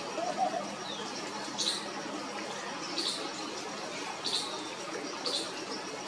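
A bird's short, high, sharp chirp repeated about every second and a half, four or five times, over a steady outdoor hiss, with a brief lower warbling note near the start.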